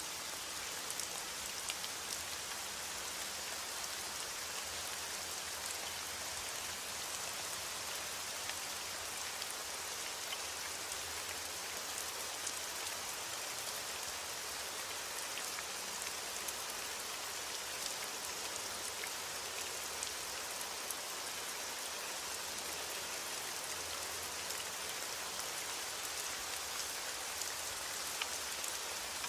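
Steady heavy rain falling on a window, an even hiss with scattered small ticks of drops throughout.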